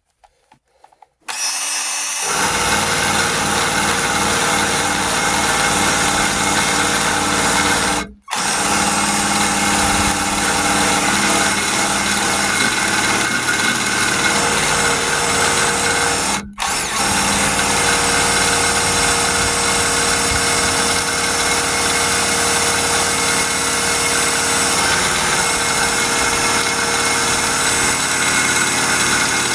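Handheld power burnishing tool (paint-stripping wheel) running against a truck's body panels, stripping off the old paint. It starts about a second in and runs steadily with a motor whine, stopping for a moment about eight seconds in and dipping briefly again about halfway through.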